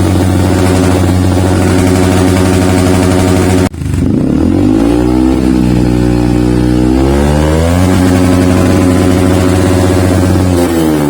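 Yamaha WR155's single-cylinder engine running through a Triton CR-5 stainless full-system exhaust at high revs. The sound breaks off abruptly about a third of the way in, then the revs fall, climb again and hold, and drop near the end.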